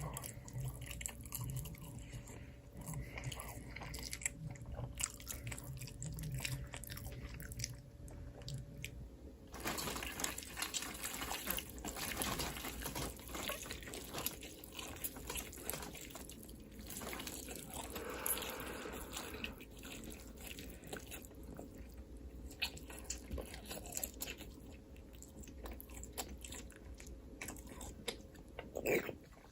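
Close-miked eating sounds: biting, crunching and wet chewing. A faint steady hum runs underneath and stops about a third of the way in.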